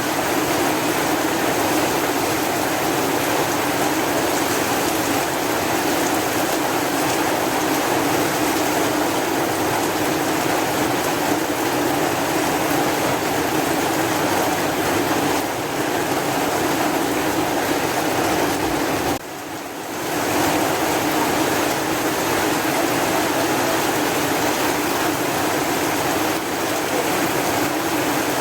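Steady heavy rain, an even rushing hiss, which dips briefly about two-thirds of the way through before returning at the same level.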